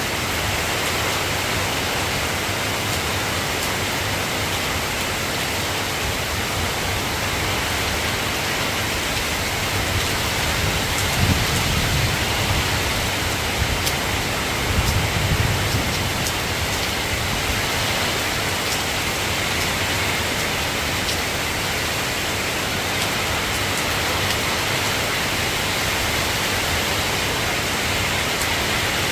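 Steady hiss of soft rain falling, with two brief low rumbles about a third of the way in and near the middle.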